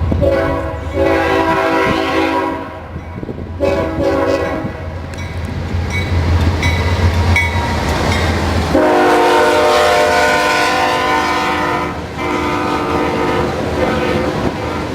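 Locomotive air horn sounding a multi-note chord in a series of long blasts as the train passes, the chord dropping in pitch about nine seconds in as the locomotive goes by. Under the horn is a low engine rumble that falls away at the same moment.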